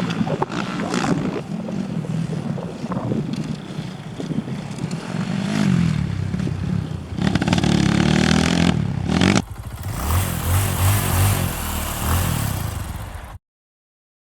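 Off-road motorcycle engines revving on a dirt track, the pitch climbing and dropping as the throttle opens and shuts. The sound changes abruptly about nine seconds in, then cuts off to silence near the end.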